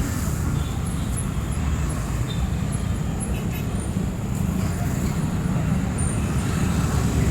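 City street traffic: a steady low rumble of passing vehicle engines and tyres.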